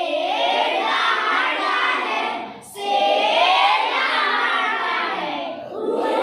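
A group of children imitating animal calls together in long, wavering drawn-out cries, with a short break about two and a half seconds in and a new cry starting near the end.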